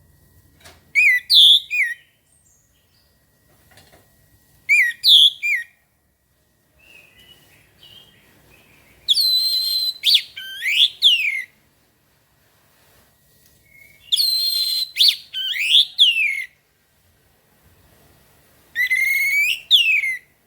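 Orange-headed thrush (anis merah) singing: five loud phrases of rapid whistled notes and sweeping slurs, a few seconds apart, the later phrases longer.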